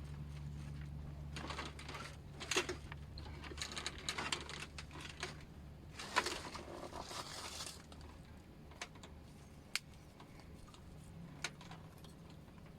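Rustling and crinkling handling noises with sharp clicks over a steady low hum, busiest through the first half, then only a few scattered clicks.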